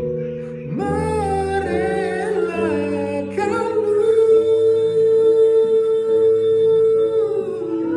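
A song: a singer draws out a sung line over the backing music, then holds one long note for about four seconds.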